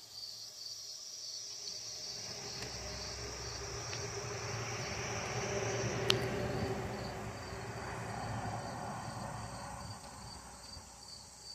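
Crickets chirping steadily in a high, even pulse. Under them a rushing noise swells to a peak about six seconds in, where there is a single sharp click, and then fades away.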